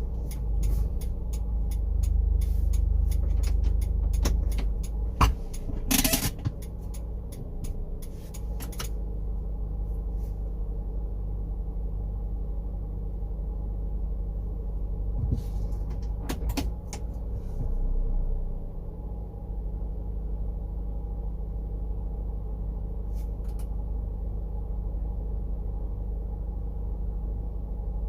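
First-generation Honda CR-V four-cylinder engine running with a steady low hum. A run of clicks and knocks sounds over the first nine seconds, with one louder burst about six seconds in, and a few more clicks come later.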